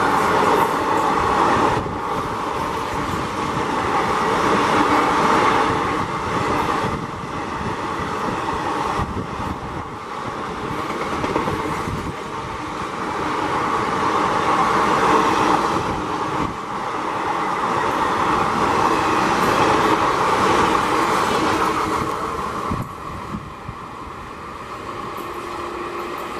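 ICF passenger coaches of an express train passing close at speed: a continuous rumble and rush of wheels on rail with some clickety-clack, swelling and easing every few seconds. It fades near the end.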